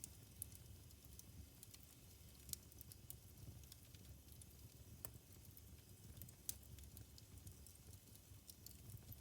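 Wood fire burning in a fireplace, crackling faintly with scattered sharp pops over a low rumble; the loudest pops come about two and a half and six and a half seconds in.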